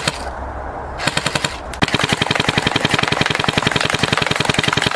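Airsoft AEG (electric airsoft gun) firing on full auto: a rapid, even rattle of shots. It starts softer about a second in and gets louder and denser just before two seconds in, carrying on steadily.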